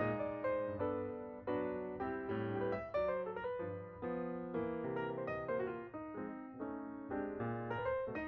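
Background piano music: chords struck and left to ring, a few notes each second.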